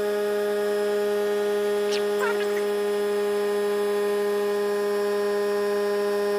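ARB on-board air compressor running steadily while it fills a 5-gallon air tank, an even hum. A short, high, falling squeak sounds about two seconds in.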